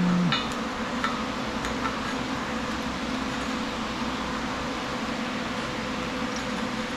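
Steady mechanical hum, fan-like, with a low tone cutting off at the very start and a few faint ticks in the first two seconds.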